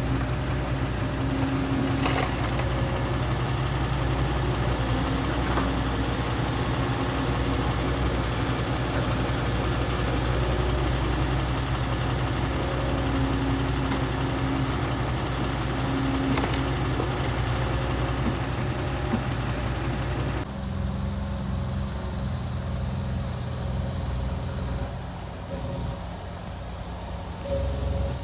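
Heavy truck's diesel engine running steadily at a low, even speed. About 20 seconds in, the engine note changes abruptly to a lower, quieter sound.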